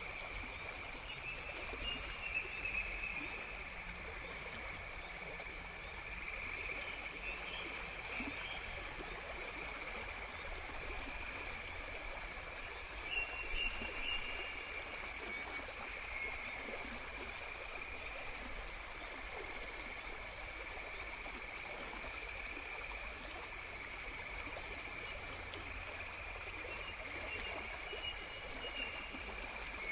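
Insects chirping and trilling over an even background hiss: a steady high trill runs throughout, with a fast pulsed chirping in the first couple of seconds and a faint regular ticking in the middle.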